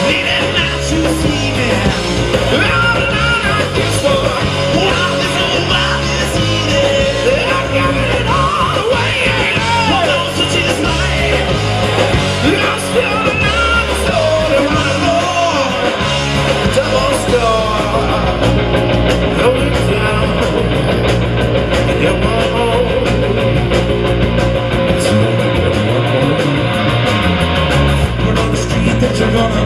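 A live band playing a song with vocals over it, loud and steady throughout.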